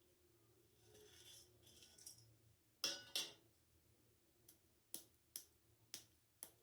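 Kitchen handling sounds: two louder scraping knocks about halfway through, then five short sharp clicks roughly half a second apart.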